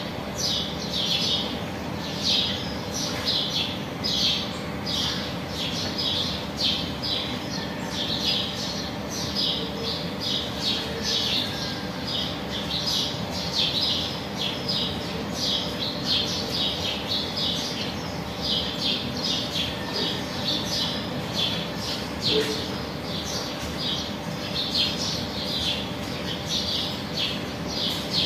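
Small birds chirping without a break, a dense run of short high chirps several times a second.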